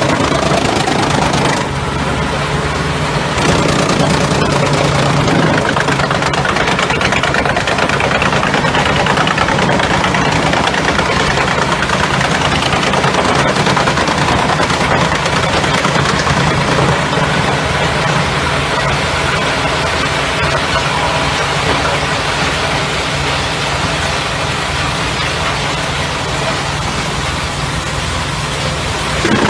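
Heizohack HM 8-400 forestry drum chipper running, its diesel engine humming steadily under a dense mechanical rush from the chipping drum. Loudness dips briefly about two seconds in, then holds steady.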